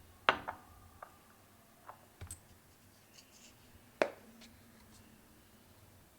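Objects being handled in a small room: two sharp knocks with a short ring, about four seconds apart, and a few lighter clicks and taps between them.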